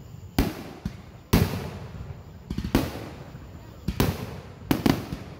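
Aerial firework shells bursting, about half a dozen sudden booms, each trailing off in a rolling rumble; the loudest comes about a second and a half in, and a quick rattle of small crackles follows shortly after.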